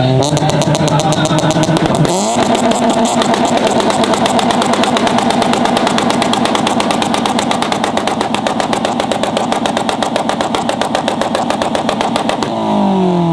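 Tuned car engine held on a two-step rev limiter, firing in a rapid, even stutter of pops and bangs for about twelve seconds. Near the end it comes off the limiter and the revs fall away.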